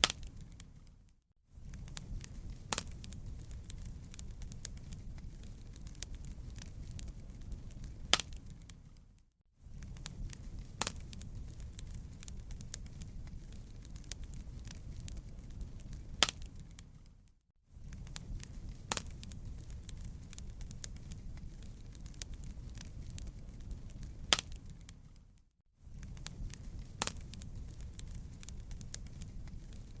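Crackling fireplace: a steady low rumble of burning wood with scattered sharp pops and snaps. It fades out briefly about every eight seconds, where a short recording repeats.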